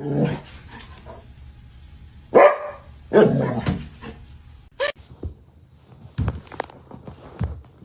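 A dog barking: two loud barks, a little over two and about three seconds in, then a shorter one near five seconds.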